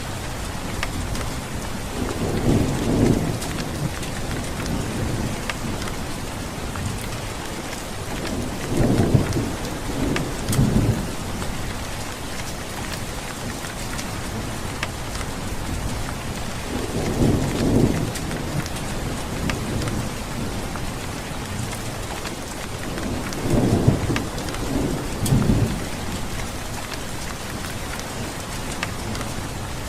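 Steady heavy rain with scattered sharp drop hits, and low rolls of thunder that swell and fade four times, two of them in double rolls.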